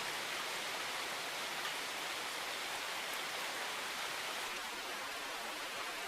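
A steady, even hiss with no rhythm or tone, holding the same level throughout.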